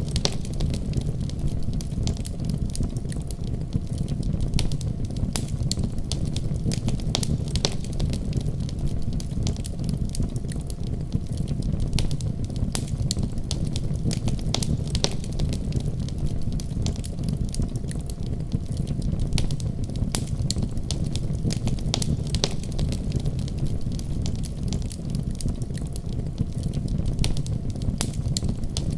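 Wood fire crackling: frequent, irregular sharp pops and ticks over a steady low rumble.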